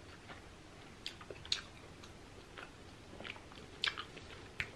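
A person chewing a mouthful of pizza with the mouth closed: faint, irregular soft clicks and wet smacks of the mouth, a few each second.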